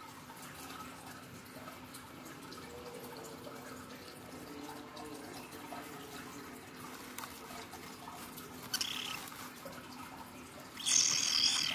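Low, steady background for most of the time. Then a short high call about nine seconds in, and from about eleven seconds a loud, high, buzzy call pulsing several times a second: a kingfisher chick begging for more food.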